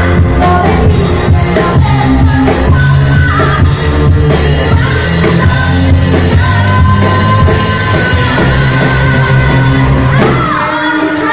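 Live band playing a disco song at full volume, a singer holding long notes over a steady bass line and drum beat, with shouts. Near the end the band drops away briefly while the voice slides in pitch.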